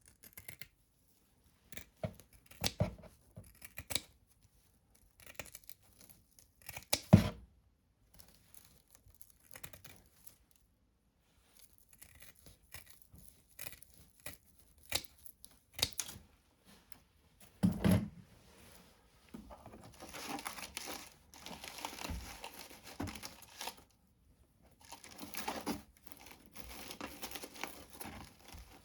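Hands handling model scenery material, rustling and pulling apart fibrous clumps and setting pieces down, with scattered clicks and two sharper knocks about seven and eighteen seconds in; the rustling grows denser in the last third.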